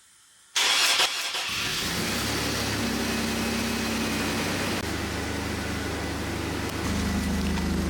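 2002 Chevy Blazer's 4.3L Vortec V6 cranking briefly and catching about a second and a half in, then idling steadily. The exhaust has an audible leak, which the owner puts down to a clamp that didn't seal the joint.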